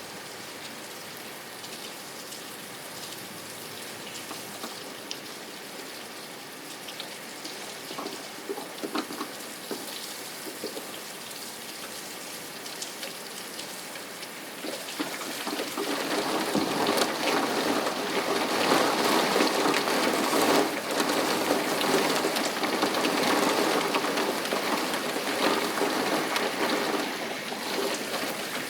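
Rain falling, at first light with scattered drips, then heavier and louder from about halfway through.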